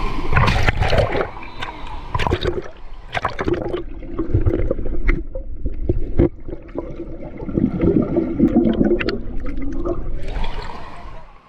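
Water splashing and gurgling close to the microphone, uneven in loudness, with many irregular knocks and thumps.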